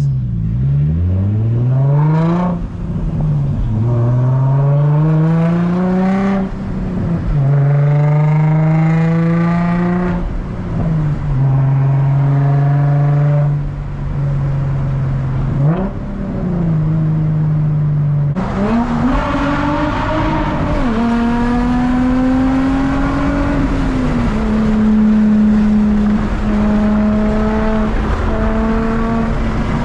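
Infiniti G35's 3.5-litre V6 running with its muffler and resonator deleted, driving through the gears of its six-speed manual: the exhaust note rises in pitch as it pulls, drops sharply at each shift, and holds steady in between. A hiss joins the engine note about two-thirds of the way in.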